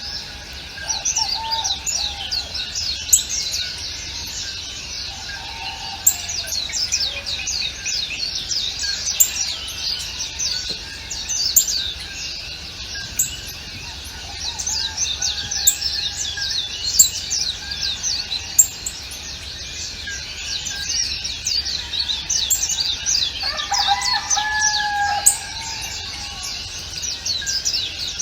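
A dense chorus of many small birds chirping without pause in quick, falling high notes. Sharper, louder notes stand out every second or two, and a lower, longer call sounds near the end.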